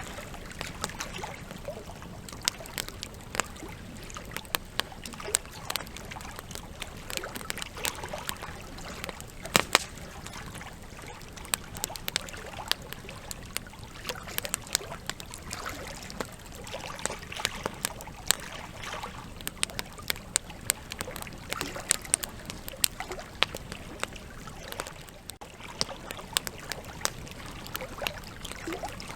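Wood campfire crackling: irregular sharp pops and snaps of burning logs over a steady low hiss of the flames, with the loudest pops about ten seconds in.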